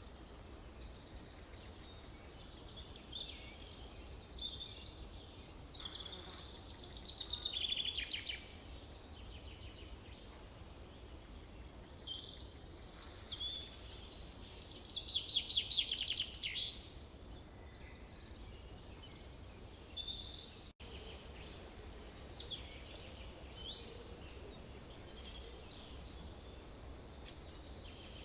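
Several songbirds singing over a steady low background hum. Two louder songs of rapidly repeated notes swell and break off, one about seven seconds in and one about fifteen seconds in. The sound cuts out for an instant a little past twenty seconds.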